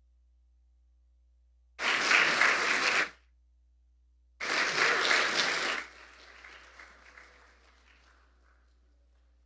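Congregation applauding, heard in two short bursts of about a second and a half each that start and stop abruptly, then a faint trailing patter of clapping that dies away.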